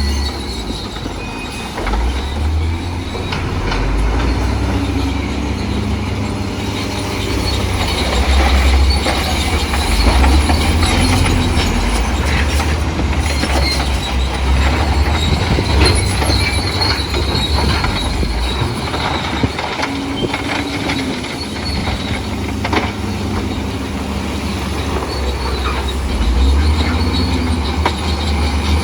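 Crawler bulldozer working: its diesel engine running with a steady low rumble while the steel tracks clank and rattle.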